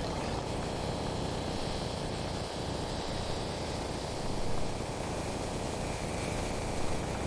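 Steady low rumbling noise without distinct events.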